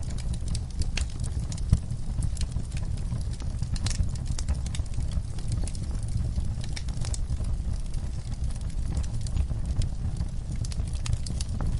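Wood fire crackling in a fireplace: a steady low rumble of flames with frequent irregular sharp pops and snaps, one louder pop about two seconds in.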